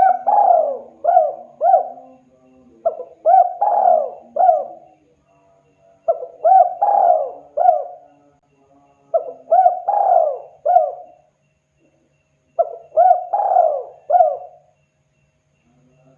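Spotted dove cooing: a phrase of four or five short notes, repeated about every three seconds, five times over. A faint low hum runs underneath.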